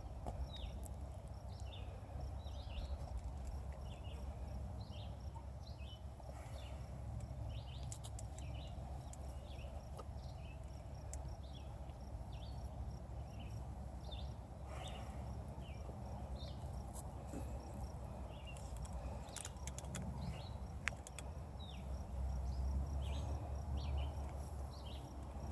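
Tiger chewing a whole chicken, with sharp cracks now and then as the bones break. Wind rumbles on the microphone and steady chirping carries on behind.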